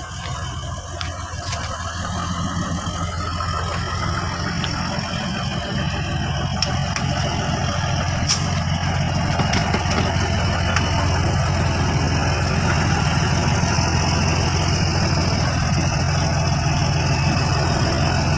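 Heavy truck engine running with a steady low drone, growing louder over the first several seconds and then holding level, with a few faint clicks.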